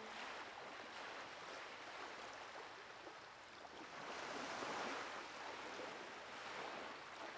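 Faint lapping of water waves, a soft wash that swells and eases in slow surges and is loudest about four to five seconds in.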